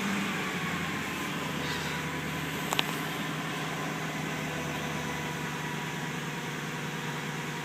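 1997 Ford Thunderbird engine idling steadily just after starting, at its cold fast idle, with a single sharp click a little under three seconds in.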